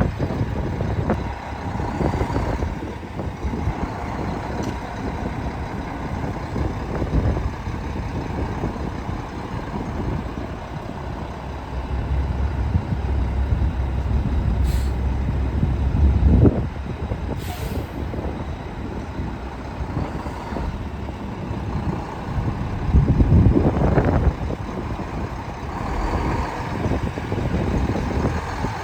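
2001 Mack dump truck's diesel engine running, with a heavy low rumble building midway for a few seconds that cuts off abruptly, and a couple of short hisses of air.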